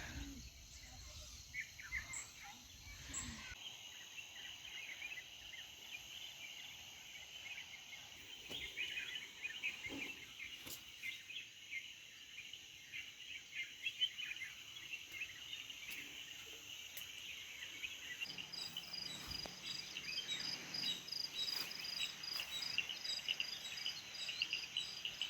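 Quiet outdoor ambience of steady high-pitched chirping from insects and birds. About eighteen seconds in, a rapid, evenly pulsed insect call joins in along with a faint low hum.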